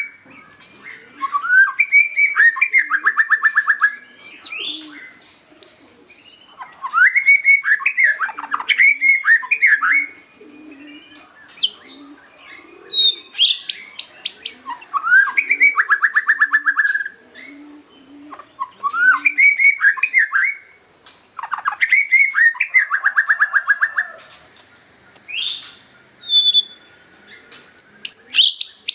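A white-rumped shama, a young bird just out of its spotted juvenile plumage, sings repeated bouts of clear whistled phrases ending in fast trills, with short pauses between bouts.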